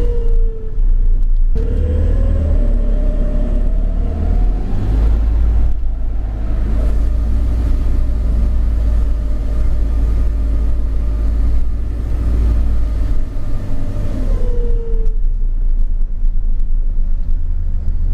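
Enviro400 hybrid bus with BAE Systems hybrid drive moving, with a deep steady rumble and an electric drive whine. The whine falls away in the first second, rises as the bus gathers speed about two seconds in, holds, then falls again as it slows near the end.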